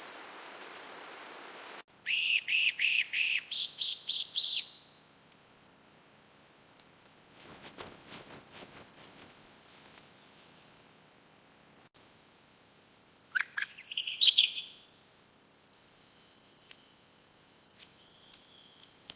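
A bird calling: a quick run of about ten loud repeated notes, then a shorter burst of calls later on. Under it runs a steady high-pitched insect drone.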